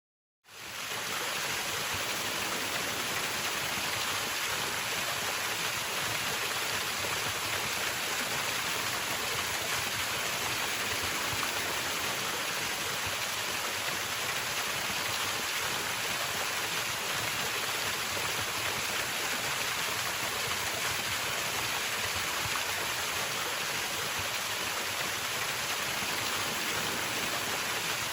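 Mountain stream rushing steadily over rocks, fading in just after the start.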